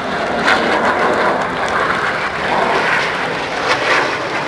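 Steady jet noise of Red Arrows BAE Hawk T1 jets flying a display pass overhead.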